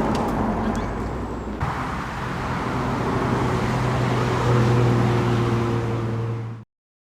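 Toyota GR Supra's 3.0-litre turbocharged inline-six running steadily while driving, over tyre and road noise. After a cut about a second and a half in, the engine hum stands out more clearly and grows a little louder, then the sound stops abruptly near the end.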